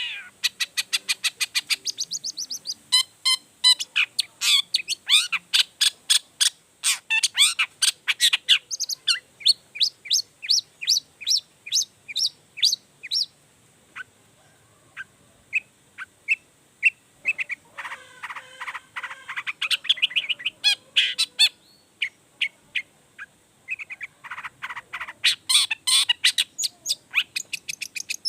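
Long-tailed shrike (cendet) singing energetically through its varied repertoire. It delivers rapid runs of sharp, high notes at several per second, broken by a couple of brief pauses.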